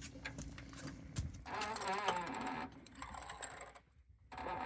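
Floor jack being worked under a low truck: a rattle of metal clicks, then a wavering squeak that comes and goes, with a short pause near the end.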